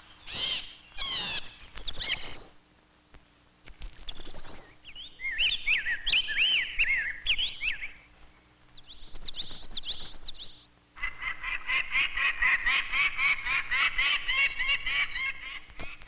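Birds singing: a series of short, separate song phrases with gaps between them, then a long, fast run of rapidly repeated notes from about eleven seconds in.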